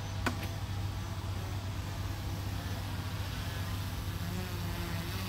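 DJI Mavic 3 drone's propellers humming steadily just after take-off, with a single sharp click about a quarter of a second in.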